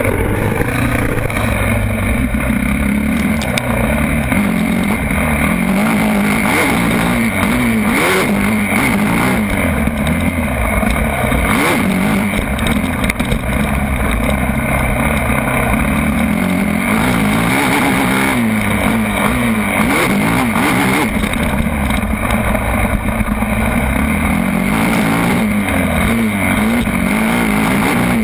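Motocross bike engine running hard, its pitch rising and falling again and again with the throttle.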